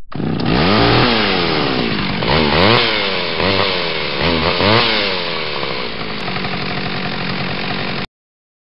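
Chainsaw engine revving, its pitch rising and falling about five times, then running on before cutting off abruptly about eight seconds in.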